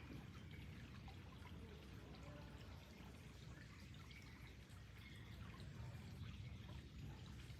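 Faint running water trickling and dripping steadily.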